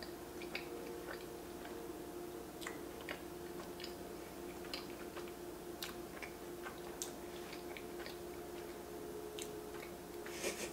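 Close-up chewing of a soft, powdered-sugar jam-filled Bismarck donut with the mouth closed: scattered wet mouth clicks and smacks at an irregular pace, over a steady low hum.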